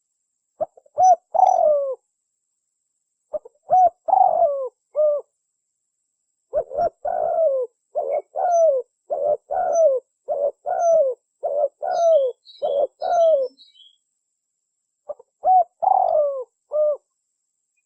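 Spotted dove (tekukur) cooing, a lure call: short phrases of two or three coos, then a long run of about ten even coos in the middle, then another short phrase near the end. Faint high chirps of a small bird come in midway.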